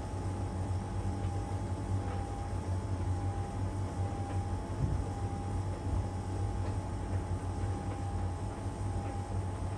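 LG heat pump tumble dryer running mid drying cycle: a steady low hum with a thin, constant high whine over it, and a few faint taps from the tumbling load.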